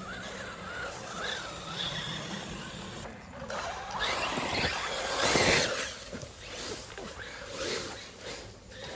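RC racing buggies running on a dirt trail: a motor whine wavering up and down in pitch with the throttle, then a louder rush of noise about five seconds in.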